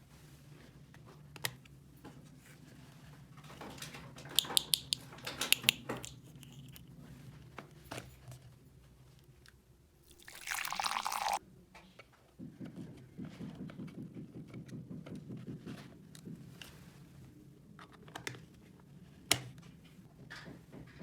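Small plastic toy kitchen pieces being handled, with scattered clicks and taps. A short rush of noise comes about halfway through, followed by a low steady buzz for a few seconds.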